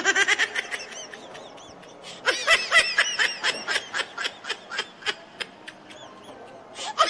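High-pitched snickering laughter, a fast run of short giggles in two bouts that thins out near the end.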